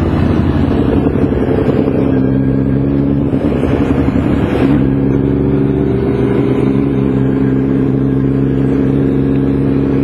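Motorcycle engine running steadily under way, its pitch rising slightly about halfway through, over a rush of wind and road noise.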